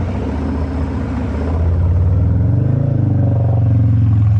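Harley-Davidson Fat Boy 114's Milwaukee-Eight V-twin engine running under way, getting louder as the pitch rises from about two seconds in as the bike accelerates.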